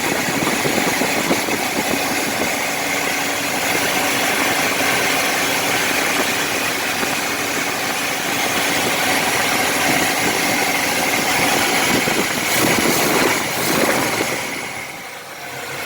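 The 1970 Chevy truck's 5.7-litre 350 Vortec V8 idles steadily through its newly finished exhaust. The sound drops away briefly near the end.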